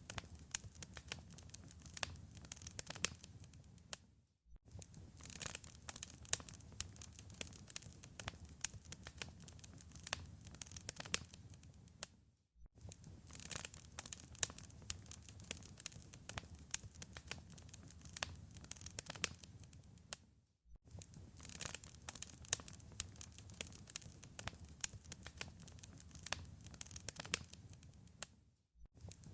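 Wood fire in a fireplace crackling, with dense snaps and pops over a low rumble of the flames. The sound briefly dips to near silence about every eight seconds, three times.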